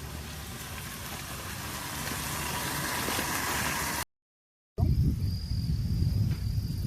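A hot pan over a wood fire sizzling with a steady hiss that grows louder for about four seconds, then cuts off abruptly. After a short gap, insects buzz with a steady high tone over a low rumble.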